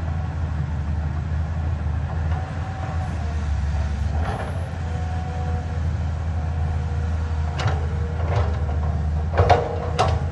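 CAT 320D hydraulic excavator's diesel engine running steadily, with a faint whine from the hydraulics, while it digs. Several sharp knocks sound in the second half, louder near the end.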